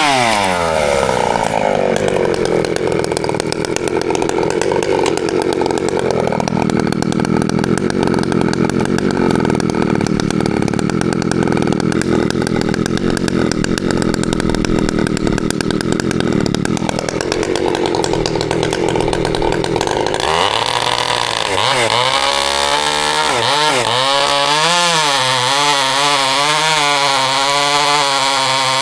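Ported Husqvarna 365 two-stroke chainsaw with an aftermarket pipe, running at full throttle and bogging down under load in a cut for about twenty seconds. It then comes free and runs unloaded, its pitch wavering up and down.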